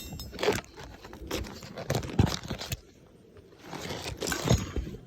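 A phone being handled and positioned for recording: irregular scraping and rustling noises as it rubs against surfaces, with several louder scrapes and a short quieter pause midway.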